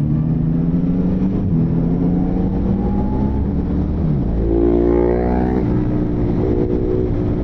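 Motorcycle engine running under way; about four seconds in, the engine note dips sharply and then climbs again as the bike accelerates.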